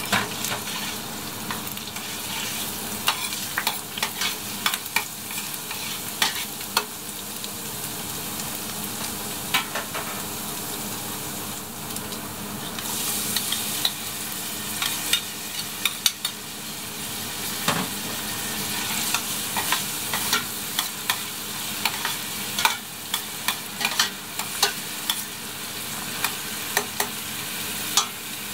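Chopped garlic and onion sizzling in hot oil in a stainless steel pot, with a metal spoon clicking and scraping against the pot as it is stirred. The sizzle grows brighter about halfway through as the chopped onion goes in.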